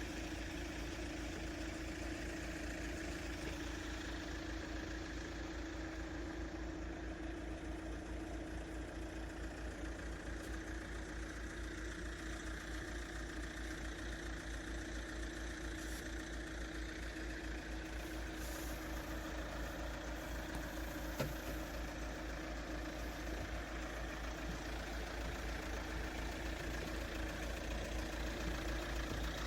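A car engine running steadily with a low, even pulsing hum.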